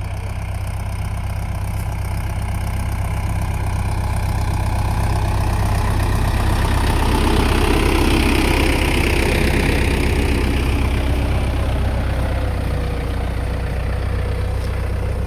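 Tractor engine running steadily as it pulls a cultivator, with a deep hum that grows louder toward the middle and eases off slightly near the end.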